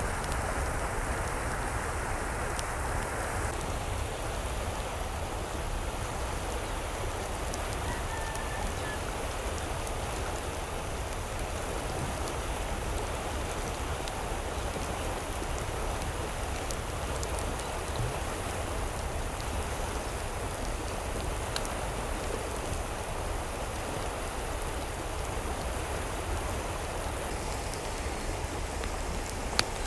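Steady rushing water, an even hiss and patter that changes tone slightly a few seconds in. There is a single sharp click near the end.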